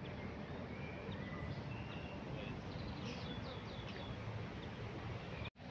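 Small birds chirping outdoors over a steady background noise, with a quick run of falling notes about three seconds in. The sound drops out for an instant near the end.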